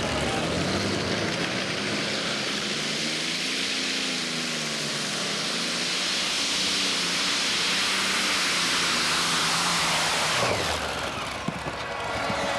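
Modified pulling tractor running flat out down the track on a pull: a loud engine howl with heavy hiss, its pitch wavering and swelling midway, then falling away about ten and a half seconds in as the power comes off.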